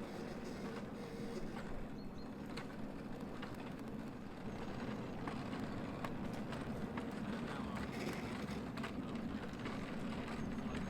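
A 5-inch gauge miniature train running on its track with a steady low rumble and scattered light clicks of the wheels.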